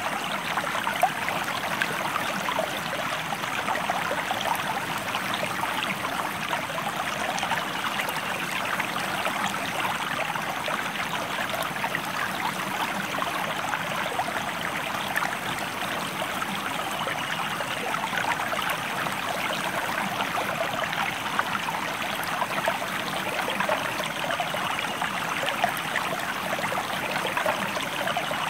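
A stream flowing steadily, with a continuous rush of running water and fine splashing, unchanging throughout.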